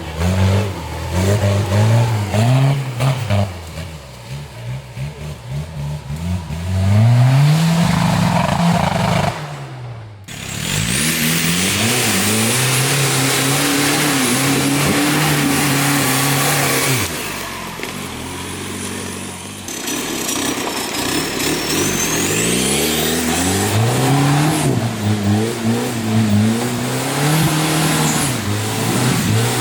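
Off-road 4x4 competition vehicle's engine revving hard again and again, its pitch climbing and falling as the driver works the throttle. There is a brief drop about ten seconds in, followed by a spell of heavy rough noise.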